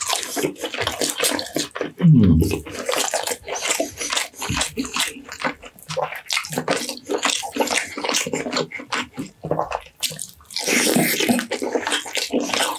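Close-miked wet chewing of roast meat, dense with mouth clicks and smacking. About two seconds in there is one brief loud low sound, and a denser, louder spell of chewing near the end.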